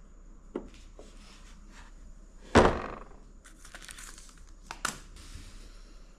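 A copper tube bender kit being handled: light clicks, one sharp thunk about two and a half seconds in, then rustling and two more clicks near the end.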